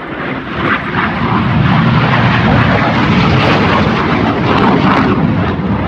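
Jet noise from a pair of BAE Hawk T1 jet trainers' Rolls-Royce Turbomeca Adour turbofans as they fly past low. It swells over the first second or two, then holds as a loud, steady roar.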